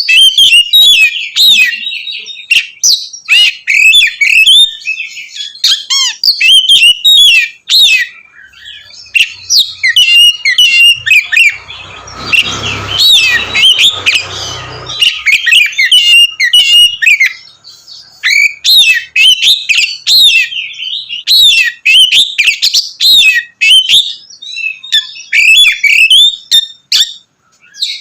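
Oriental magpie-robin (kacer) singing loudly in full, open 'ngeplong' song: a fast, unbroken run of varied whistles, chirps and trills, with a few short breaks. A brief rushing noise with a low rumble sounds about halfway through.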